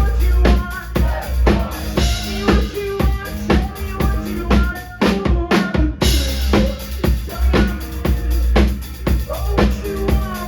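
Live rock band playing an instrumental passage: a drum kit keeps a steady beat under sustained guitar notes. About five seconds in, the sound thins out for a moment, then the full band comes back in.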